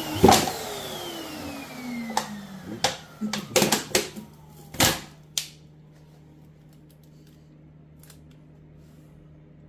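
Vacuum cleaner running, with its whine falling in pitch, used to suck air and brake fluid through the bleed nipple of a new brake caliper via a cola bottle. Several knocks and clatters of handling are heard. The sound stops suddenly about five and a half seconds in.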